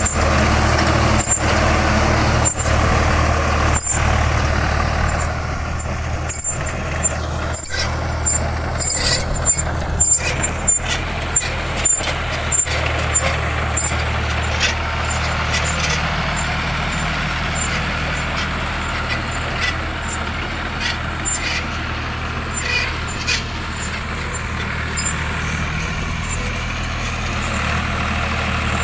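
Swaraj 855 tractor's diesel engine running steadily at a constant note, with many sharp clicks and knocks scattered over it, thickest a few seconds in and thinning out after the middle.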